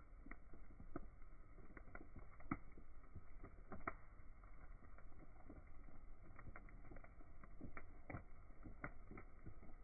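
Wood bonfire crackling, with irregular sharp pops over a low steady rumble.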